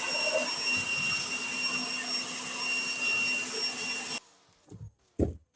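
Air blower blowing harvest debris out of a combine: a steady rushing hiss with a high whine that cuts off suddenly about four seconds in, followed by two short knocks.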